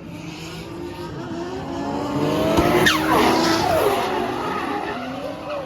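A drift car passing under power, its engine revving and tyres squealing as it slides; the sound builds to a peak about halfway through with a falling pitch, then fades.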